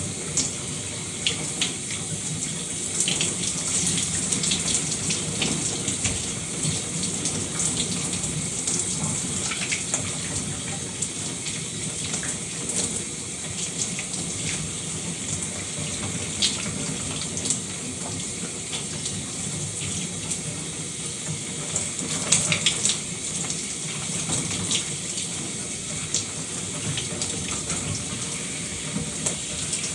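Shower water running steadily and splashing, with a continuous hiss broken by small irregular spatters.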